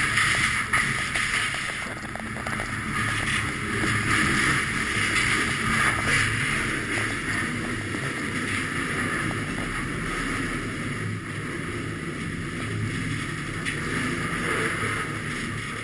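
Freight train rolling, heard from the end platform of a covered hopper car: a steady rumble and rattle with a loud hiss over it, and scattered light clicks, most of them in the first few seconds. Wind buffets the microphone.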